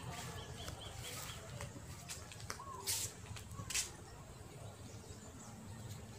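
Bird calls: a quick run of five short chirps near the start, then a few lower curved calls, over a steady low rumble, with a few sharp clicks in the middle.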